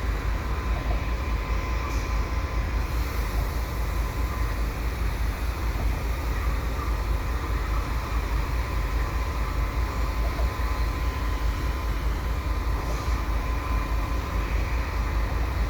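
GE AC4400CWM diesel locomotives idling while the freight train stands, a steady low rumble with a thin steady whine above it.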